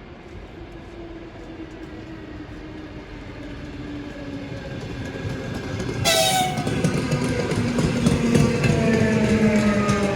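Electric commuter train approaching through the station, its rumble growing steadily louder. About six seconds in, its horn sounds and holds to the end, the pitch slowly falling.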